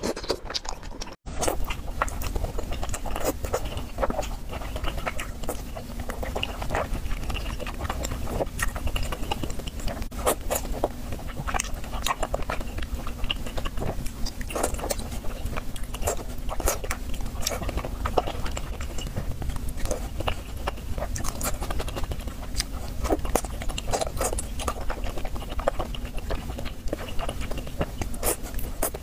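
Close-miked wet chewing and biting of chewy tteokbokki rice cakes in spicy sauce: irregular sticky mouth clicks and smacks over a steady low hum, with a brief cut-out about a second in.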